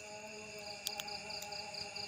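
A long, steady humming call held on one pitch, which the uploader takes for a strange, unseen bird calling from a tree after dusk. Behind it runs a fast pulsing trill and a steady high buzz of night insects.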